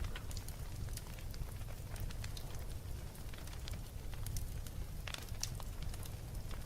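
Wood fire crackling in a fireplace: a steady low rumble of flames with irregular sharp pops and snaps, a cluster of louder pops about five seconds in.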